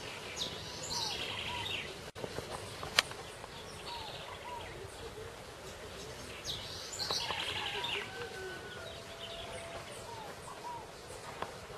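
Birds calling outdoors: a short arched note repeated again and again, with patches of buzzy, higher chirping near the start and again about seven seconds in. A single sharp click sounds about three seconds in.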